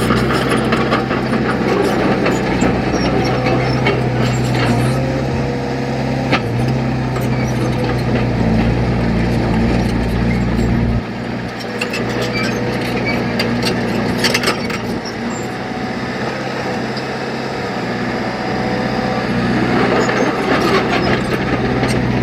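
Heavy diesel engine of an earthmoving machine running, with scattered clanks and scraping. About eleven seconds in the deep engine note drops away, and the sound builds again near the end.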